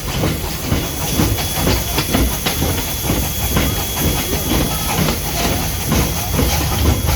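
Vintage steam train running, with a steady rumble and hiss broken by many irregular clacks and knocks. A thin high tone rings through the first few seconds.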